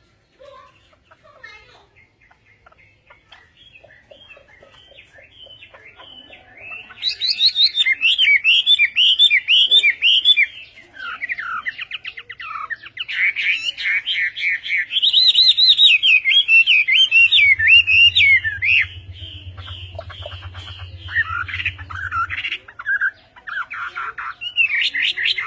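Songbird singing a loud, fast, varied warbling song in rapid up-and-down phrases with short pauses between them, starting about seven seconds in after a quieter stretch. A low hum sounds under the song for a few seconds midway.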